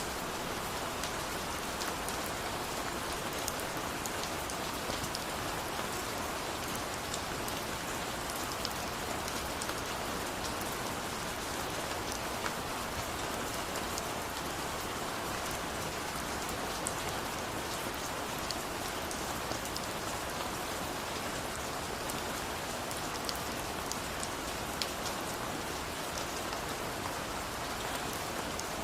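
Steady rain falling, a constant hiss with many small drop patters scattered through it.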